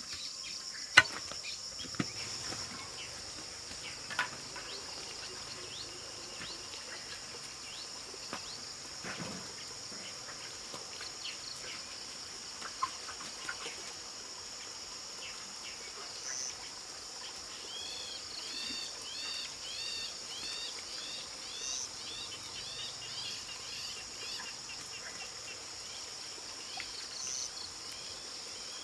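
Steady high drone of an insect chorus, with a few sharp knocks in the first few seconds and a run of quick repeated chirps in the second half.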